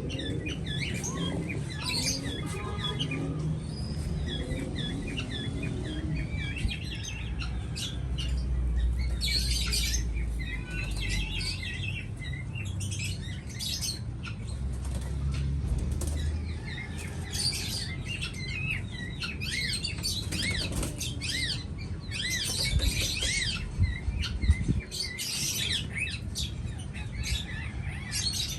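Small birds chirping over and over in short high calls, with bursts of wing flapping. There are low rumbles twice in the middle and a few sharp knocks later on.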